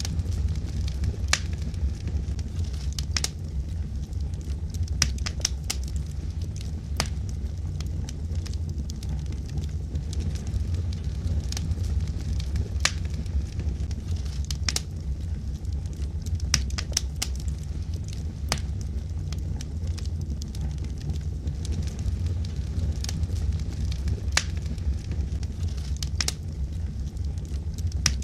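Wood fire burning in a fireplace: a steady low rumble of flame with sharp, irregular pops and crackles from the burning logs, some coming in quick clusters.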